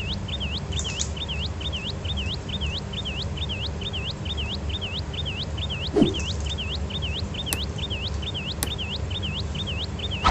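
A high chirp repeated evenly, about three times a second, over a steady low hum. About six seconds in there is one short, lower call or squeak.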